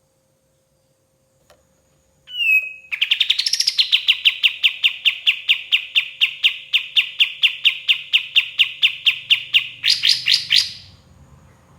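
Kapas tembak songbird singing: a short whistled note, then a long rapid trill of repeated falling notes, about four to five a second, ending in a few louder, higher notes.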